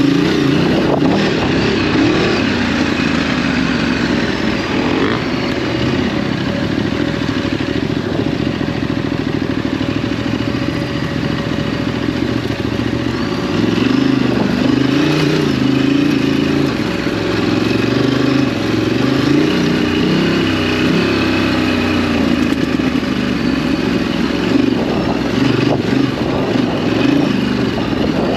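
Ducati DesertX's 937 cc Testastretta V-twin running under way on a dirt track, its pitch rising and falling with the throttle, more markedly in the second half.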